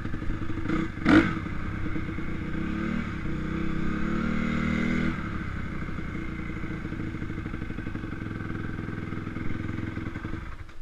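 Motocross bike engine running, rising in pitch from about three seconds in as it revs up, then dropping off suddenly at about five seconds and carrying on at a steadier note. A short sharp clatter about a second in.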